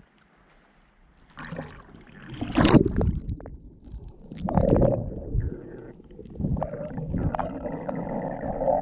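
Water sloshing and gurgling close to the microphone, in irregular surges with a few clicks, starting about a second and a half in.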